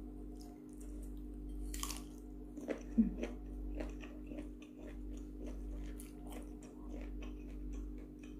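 Mouth sounds of biting and chewing a mouthful of raw vegetables with sambal, with many small crunching clicks and a louder crunch about three seconds in.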